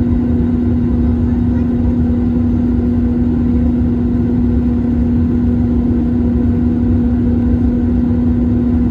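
Steady in-flight noise of an Airbus A321-231 heard inside the cabin: a constant low rumble of engines and airflow with an even, unchanging hum.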